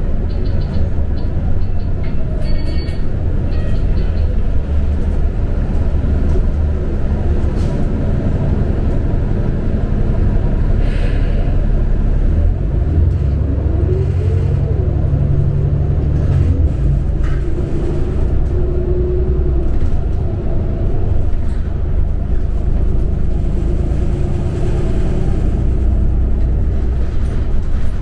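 Ride inside a New Flyer XD40 diesel city bus: a steady low engine and road rumble while the bus is under way, with a brief whine that rises and falls in pitch about fourteen seconds in.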